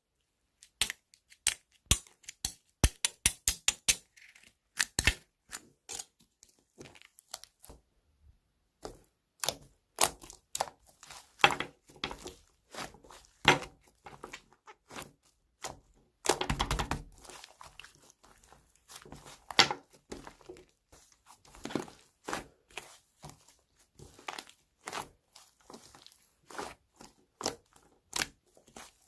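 Hands handling small objects at close range: a quick run of light taps and clicks, with a longer crinkling, tearing rustle about sixteen seconds in.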